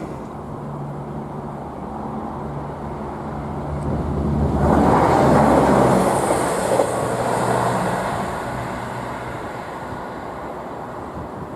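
A road vehicle passing over the crossing: a steady engine hum, with a swell of tyre and engine noise that peaks about halfway through and then fades.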